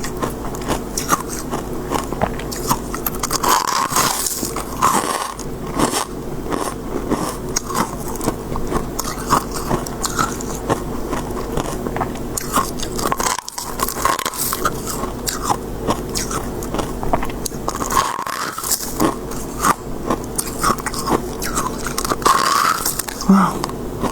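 Close-miked biting and chewing of crisp freezer frost, a dense run of crackling crunches throughout, over a steady low hum.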